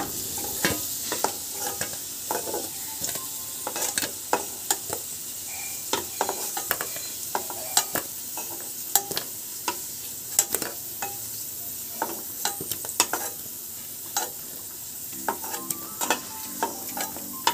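Hot mustard oil sizzling in a kadai as fried potato chunks are lifted out, a steady hiss broken by frequent irregular sharp crackles and the scrape and clink of a metal spatula against the pan.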